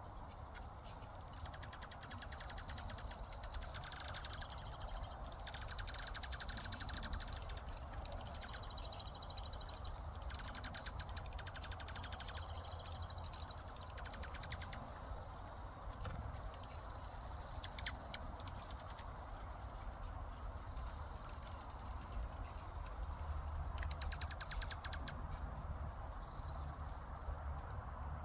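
Birds giving repeated high trills, each about a second long, coming every second or two, over a steady low rumble.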